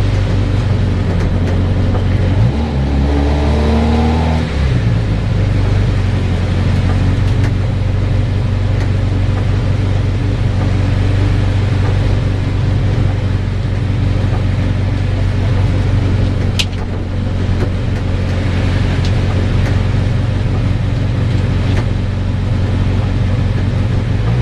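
Mazda MX-5's four-cylinder engine running, its revs rising briefly about three seconds in and then held steady and low. A single sharp click about two-thirds of the way through.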